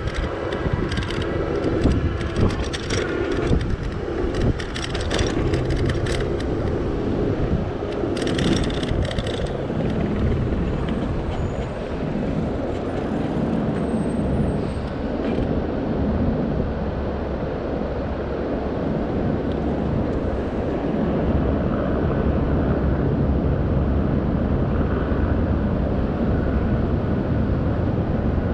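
Steady low rushing of road and traffic noise heard while riding an e-bike through city streets, with scattered clicks and rattles during the first ten seconds or so.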